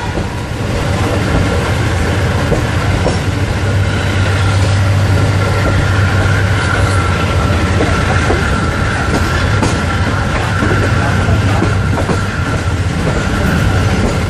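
Diesel-hauled passenger train running on the line, heard from on board: a steady low rumble with wheels clicking over the rail joints.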